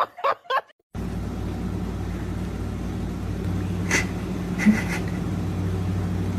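Steady low hum like a vehicle engine and road noise heard from inside a car, starting about a second in, with two brief higher-pitched sounds around four seconds in.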